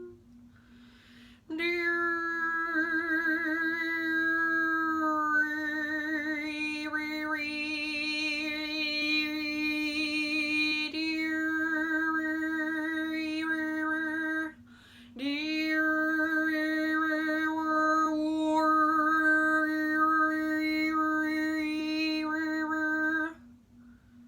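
A woman singing wordless, long-held vocal tones as channeled sound healing, with the overtones above each note shifting and brightening. There are two long phrases, the first wavering at its start, with a short breath between them about halfway through.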